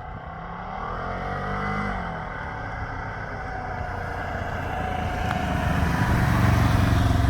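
Motor vehicle engine accelerating: it rises in pitch, eases off about two seconds in, then climbs again and grows louder near the end.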